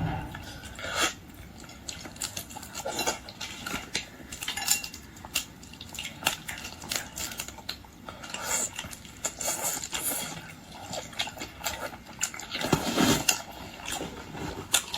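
Boiled shrimp and lobster being handled and eaten: irregular small clicks, cracks and clinks of shells and tableware.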